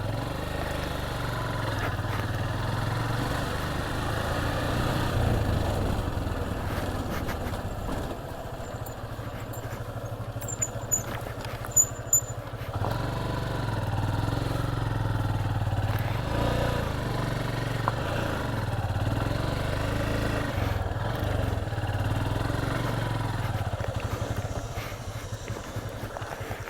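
Motorcycle engine running at low revs, its note rising and falling with the throttle. The engine drops quieter about eight seconds in, with a few short sharp clicks around eleven to twelve seconds.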